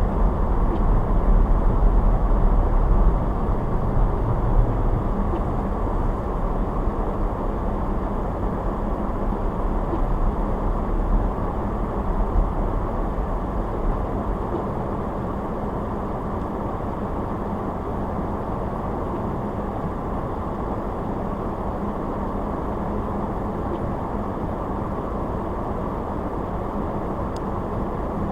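Car driving: steady road and engine noise. The deepest rumble is heaviest at first and eases about halfway through.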